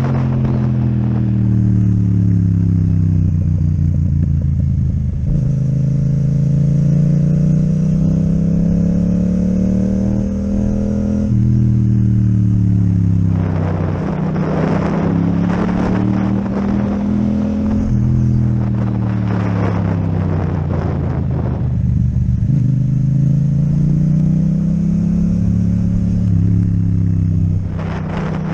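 Yamaha MT-07 parallel-twin engine with an Akrapovic exhaust on the move, its pitch falling off and climbing again several times as the rider rolls off the throttle, accelerates and changes gear. Wind rushes over the microphone in stretches.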